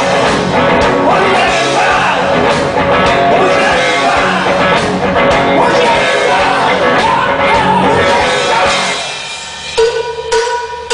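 Rock band playing live at full volume with drums, electric guitar and vocals, the song winding down about nine seconds in. Near the end come a few sharp struck hits with a ringing metallic tone, like a cowbell.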